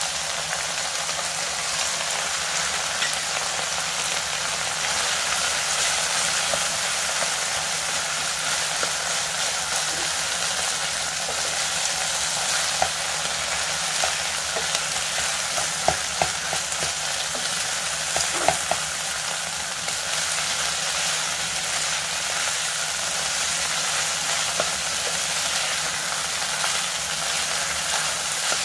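Pork belly, kimchi and freshly added cooked rice sizzling steadily in a white nonstick frying pan as they are stirred and mixed with a spatula. A few light knocks of the spatula against the pan come near the middle.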